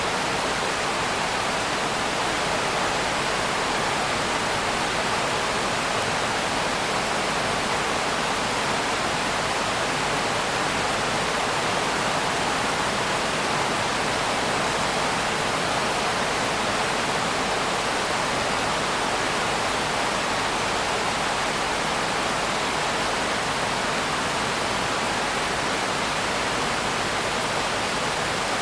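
Steady heavy rain: a loud, even hiss that does not rise or fall.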